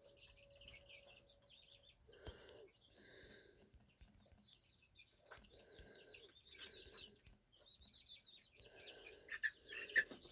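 Faint birds calling: thin, wavering high chirps and shorter, lower calls repeating every second or so.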